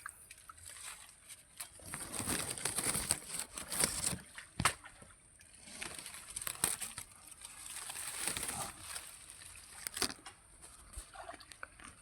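Pond water and mud sloshing and splashing in irregular surges, with scattered sharp knocks, over a steady high insect buzz.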